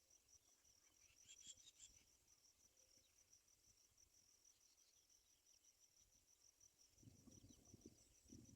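Faint insect chirping in a fast, steady, high pulse. A short run of higher chirps comes about a second and a half in, and a low rumble near the end.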